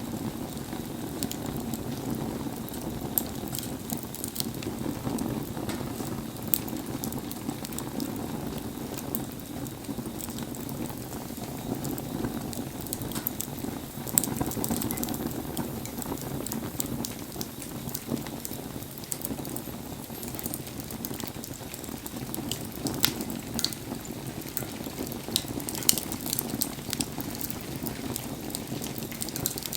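Wood bonfire burning in the rain: a steady low bubbling hiss with frequent sharp crackles and pops, a few louder pops in the latter part.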